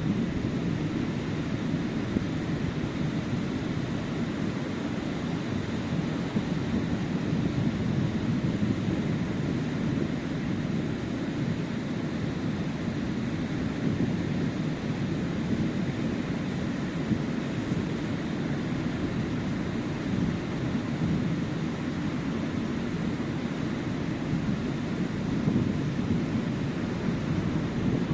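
Sea waves breaking and washing up the beach: a steady low rush that swells and eases gently.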